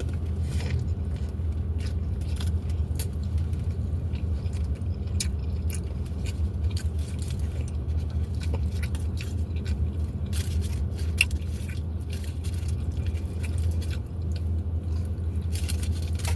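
Close-up chewing and eating of food, with many short wet clicks and crunches, over a steady low hum like an idling car engine.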